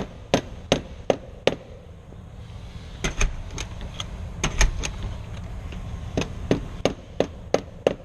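Rapid, evenly spaced hammer blows on a metal door, about three a second, in three runs with short pauses between, as the hole is reworked where the latch was catching.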